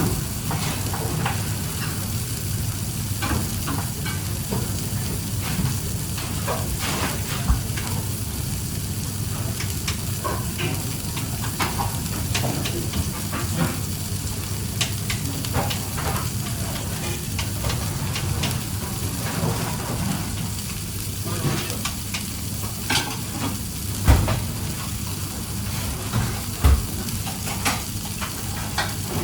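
Food sizzling and frying in a hot pan, with frequent clicks and scrapes of a utensil stirring it. A few louder knocks stand out, about a third of the way in and twice near the end.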